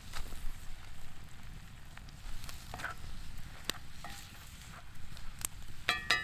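Food sizzling in a pan over campfire coals, with scattered sharp crackles. Near the end a metal utensil clinks against the pan several times, each strike ringing briefly.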